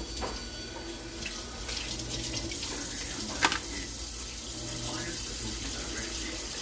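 Kitchen tap running into a sink, with one sharp knock about halfway through.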